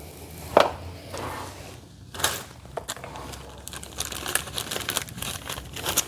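Hands handling garage-door hinge hardware: a crinkling rustle with scattered clicks and light knocks, the sharpest about half a second in and about two seconds in.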